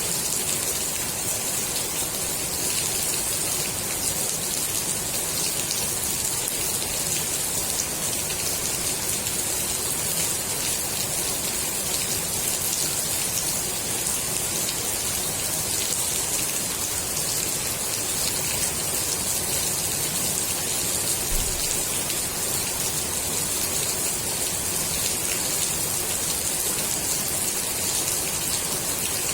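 Steady rain falling on a swimming pool's water surface, an even hiss of many drops.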